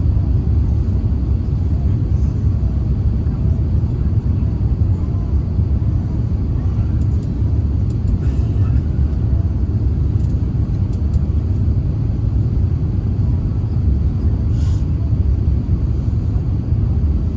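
Cabin noise inside an Airbus A350-900, heard from a window seat behind the wing: a steady low rumble of the Rolls-Royce Trent XWB engines and airflow, with no change in level.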